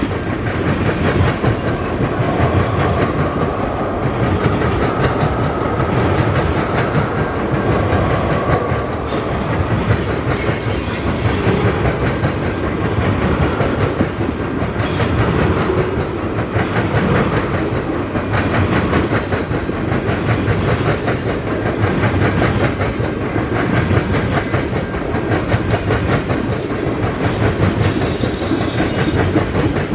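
Freight train cars rolling past close by, the wheels clacking steadily over the rail joints. A few brief high squeals from the wheels break through now and then.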